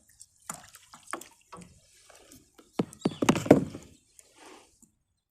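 Water dripping and splashing in short, irregular bursts, mixed with a few sharp knocks, the loudest splash about three seconds in.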